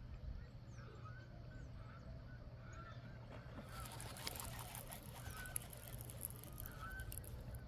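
Faint short bird calls, repeated several times, over a steady low rumble of wind on the microphone; a crackling hiss comes in about halfway through.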